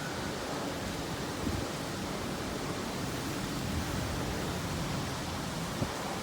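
Typhoon wind blowing in a steady rushing hiss.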